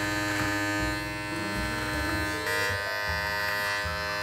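Electric beard clippers running with a steady buzz while trimming along the underside of a beard, the tone shifting slightly now and then.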